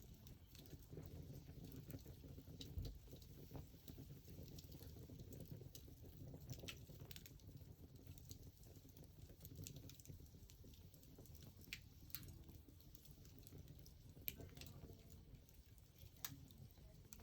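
Wood fire crackling quietly: scattered sharp pops and snaps, a few seconds apart, over a low steady rumble.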